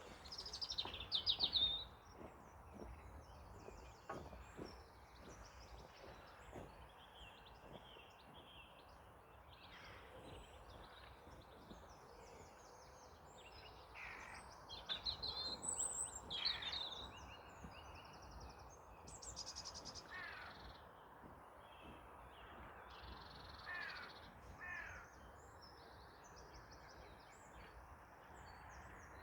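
Several wild birds calling and singing: a mix of short chirps, trills and quick rising and falling calls over a faint steady outdoor background, loudest about a second in.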